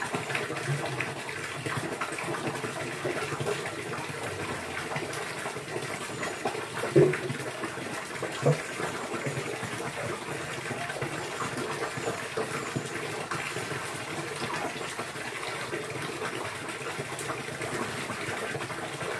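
Steady running, gushing water. Two short, louder low sounds stand out about seven and eight and a half seconds in.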